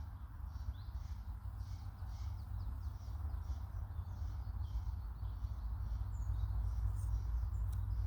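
A small bird repeats a short high call note about two or three times a second, over a steady low rumble.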